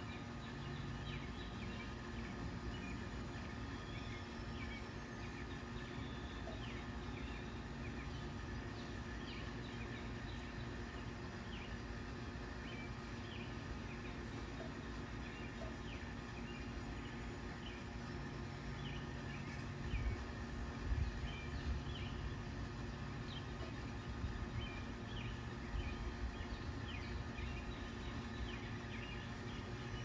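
Short, high bird chirps scattered throughout over a steady low outdoor rumble, with a few louder low thumps about two-thirds of the way through.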